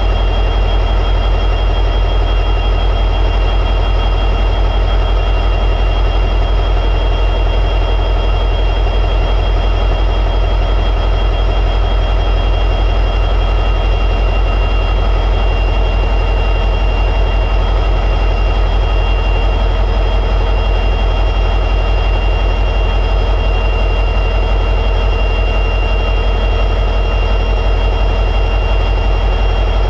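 EMD 710G3B two-stroke turbocharged diesel prime mover of an SD60-series locomotive running steadily at high idle, a deep even rumble with a steady high whine over it.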